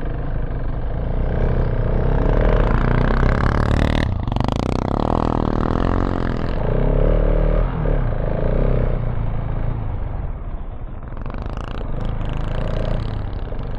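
KTM 690 Enduro R's single-cylinder engine running under throttle over rough off-road ground, its revs rising and falling, with wind noise and one sharp knock about four seconds in.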